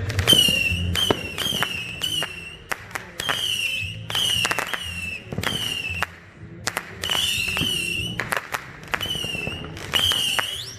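Whistling fireworks going off in quick succession: over a dozen sharp cracks, most followed by a short, high whistle that dips slightly in pitch.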